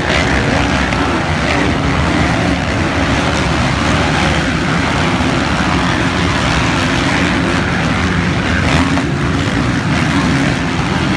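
Motocross bike engines running loud and steady, with faint rising and falling pitch from revving.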